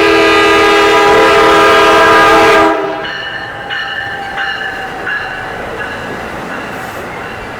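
Train horn sounding one loud, steady chord for about two and a half seconds, cutting off suddenly. The train's rumble follows, with intermittent high squeals from the wheels.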